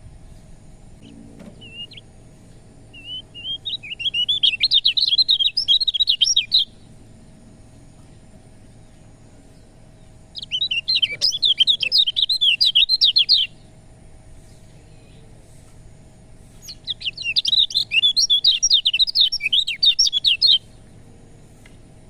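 Kecial kuning, a white-eye (pleci), singing in three bouts of rapid chattering, twittering notes, about three seconds each, the first led in by a few soft notes.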